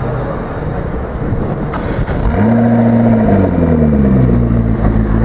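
A McLaren MP4-12C's twin-turbo V8 starting up: a click about two seconds in, then the engine catches with a brief flare in revs that falls away and settles toward idle.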